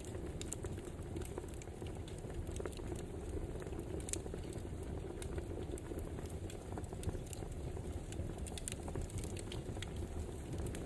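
Wood fire crackling: a steady low rush of burning with irregular sharp pops and snaps scattered throughout.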